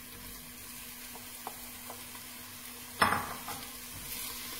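Pancetta frying in olive oil with softened onion, carrot and celery, a steady sizzle with small ticks and the scrape of stirring in the pan. A sudden louder clatter about three seconds in.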